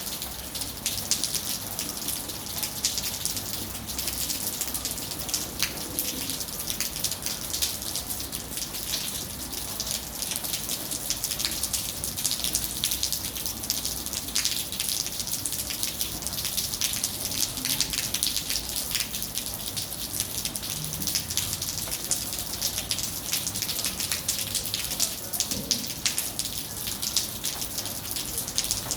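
Steady rain falling, a dense patter of many fine drop impacts over an even hiss, unchanging throughout.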